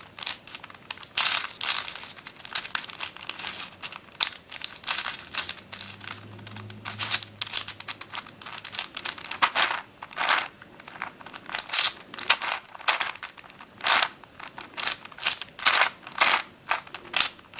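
Witeden 3x3x9 cuboid twisty puzzle being scrambled by hand: its plastic layers turning, giving quick, irregular clicks and clacks.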